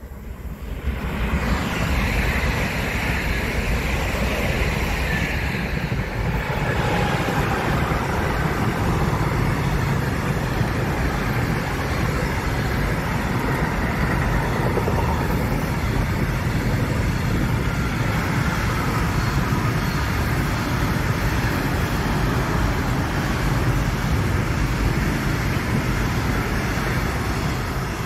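A long intermodal freight train of pocket wagons carrying semi-trailers rolling past close by. It grows loud over the first couple of seconds, then gives a steady rumble and clatter of wheels on rails, with faint thin squealing tones above it.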